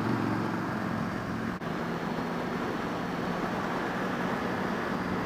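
Motorcycle engine running at a steady cruising pace with wind rush, and a brief dip in the sound about a second and a half in.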